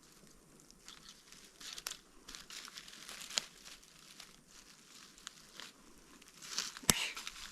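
Dry forest leaf litter and soil crackling and rustling as it is disturbed, with irregular small clicks and one sharp click near the end.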